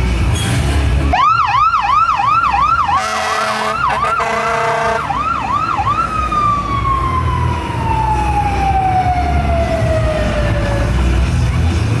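Fire truck siren in a rapid yelp, about four sweeps a second, interrupted for a couple of seconds by a steady horn-like blast. It then gives one long tone that falls slowly in pitch as it winds down.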